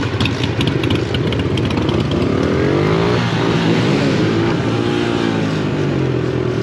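Several small pit bike engines running together at different pitches, with revs rising and falling about midway through.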